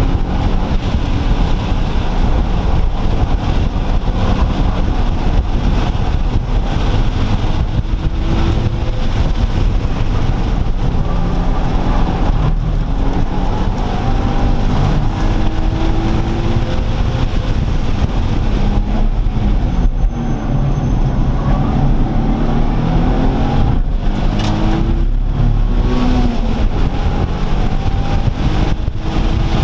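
Several car engines running, with repeated revs rising and falling over a steady low rumble.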